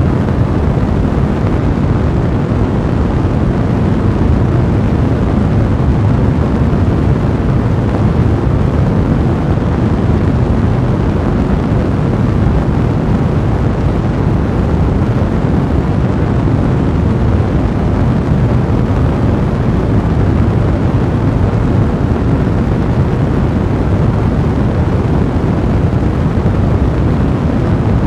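Fire burning steadily in a fireplace, a dense, even rumble of flames.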